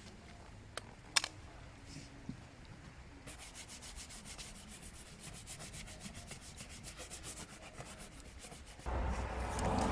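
A few light clicks, then fast, steady rhythmic scraping for several seconds; a louder rushing noise starts near the end.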